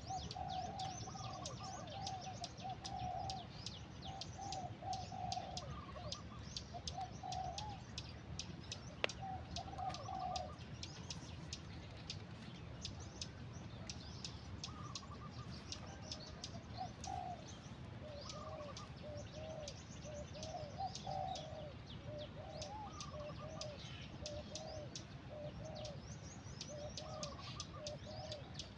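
Birds chirping and calling: rapid high chirps throughout, over runs of short, lower arched calls that fall quiet in the middle and come back thicker in the second half. A single sharp click about nine seconds in.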